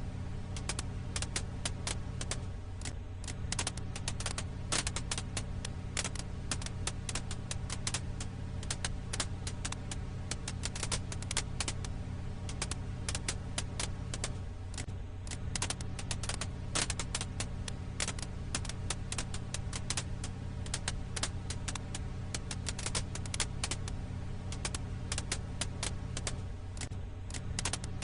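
Campfire crackle ambience: firewood snapping and popping in dense, irregular clicks over a steady low hum. The hum dips briefly about every twelve seconds, as a repeating loop would.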